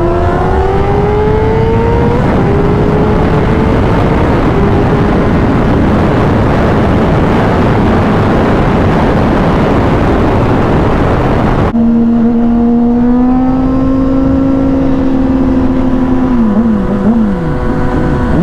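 Sport bike's inline-four engine accelerating hard, its pitch rising, then buried under heavy wind rush on the microphone. After a sudden cut about twelve seconds in, the engine runs at a steady, lower speed, with the throttle rolling on and off a few times near the end.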